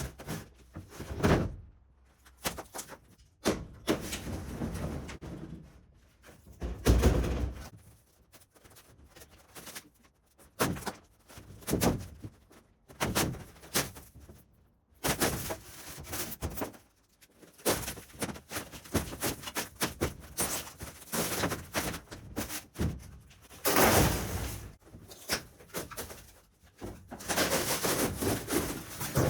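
Hand work on a caravan's interior wall panelling: irregular knocks and thuds with scraping, and several stretches of quick repeated strokes.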